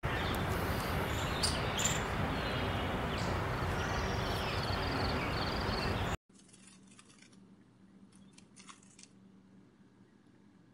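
Steady outdoor background noise with a few faint high chirps. It cuts off suddenly about six seconds in to near silence broken by a few faint clicks.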